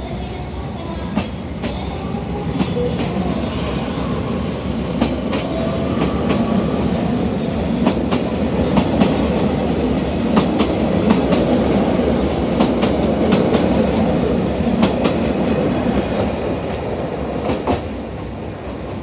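JR Hokkaido stainless electric commuter train rolling along the platform, its wheels clicking over the rail joints, louder as the middle cars pass and easing near the end as the last car goes by.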